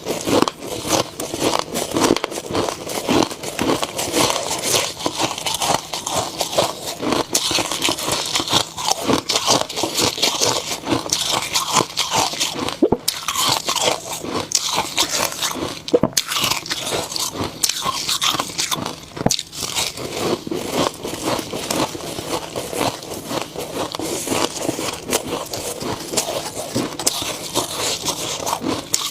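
A person biting and chewing snow ice close to the microphone: dense, continuous crunching and crackling, bite after bite, with a couple of brief breaks midway.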